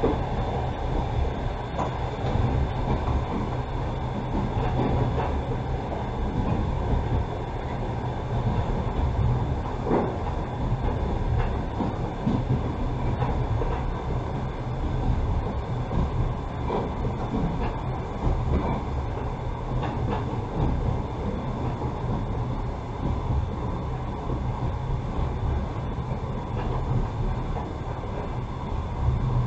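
Passenger train carriage running along the track, heard from inside the carriage: a steady rumble of wheels on rails with a few faint knocks from the rail joints.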